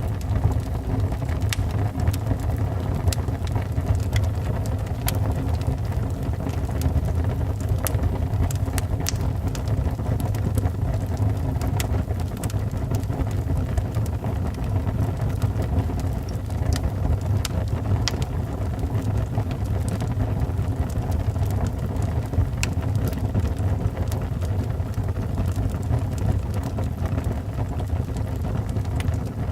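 Wood burning in a fireplace: irregular sharp crackles and pops over a steady low rumble of the fire.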